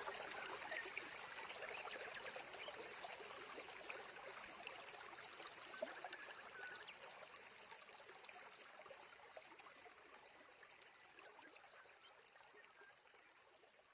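Water flowing in a stream, trickling and splashing with a dense crackle, fading steadily away.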